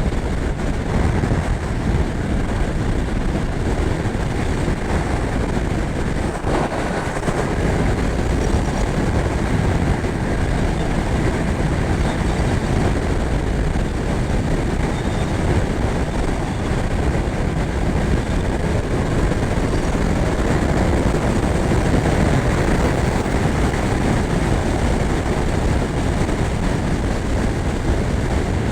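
Yamaha R1 sport bike's inline-four ridden at highway speed, with a steady rush of wind noise over the engine. There is a brief change in the sound about six and a half seconds in.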